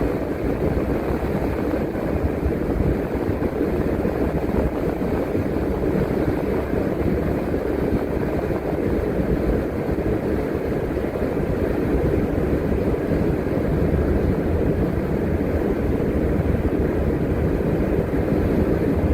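Transit bus driving, a steady mix of engine and road noise heard from inside the bus.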